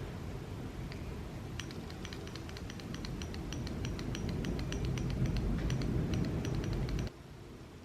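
A quick, irregular run of light plastic clicks from mechanical keyboard parts being worked, over a low steady rumble that grows louder and then cuts off abruptly near the end.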